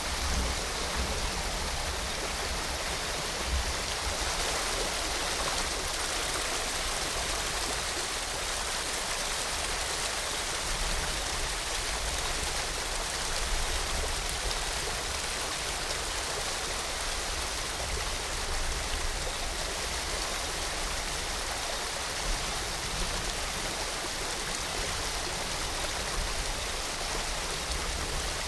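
Steady rushing water of a waterfall blended with falling rain: an even, unbroken hiss.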